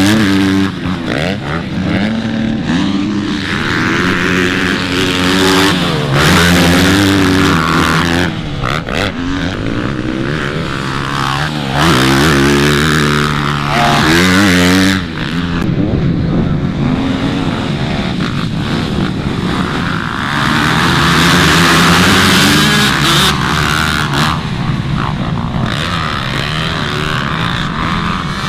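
Motocross dirt bike engines running hard, the revs climbing and dropping back again and again as the bikes accelerate and shift.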